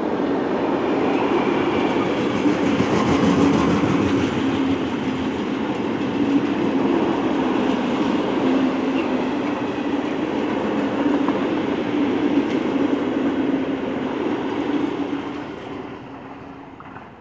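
Long freight train of covered wagons rolling past close by: a steady rumble of wheels on rail with a low drone, fading away over the last couple of seconds.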